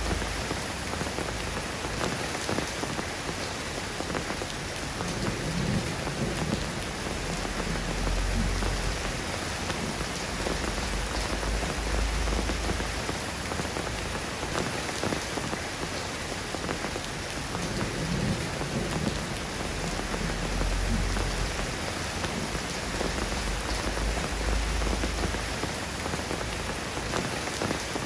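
Steady rain falling on a surface, an even hiss, with low rumbles that swell and fade several times.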